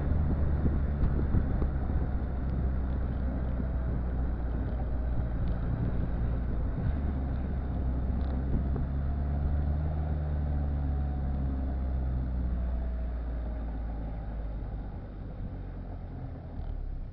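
Exhaust of a Citroën Visa running a swapped-in XUD7TE four-cylinder turbo diesel, a steady low rumble that drops in level about three-quarters of the way through.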